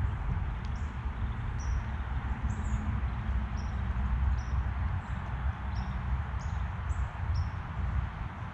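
Small songbirds giving short, high chirps, about a dozen scattered irregularly, over a steady low background rumble.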